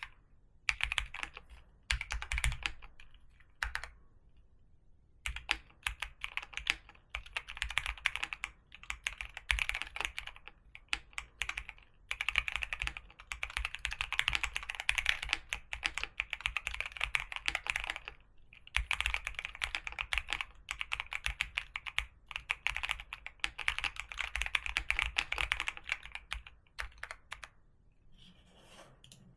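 Typing on a computer keyboard: quick runs of key clicks in bursts, with a pause of about a second near the start and another near the end.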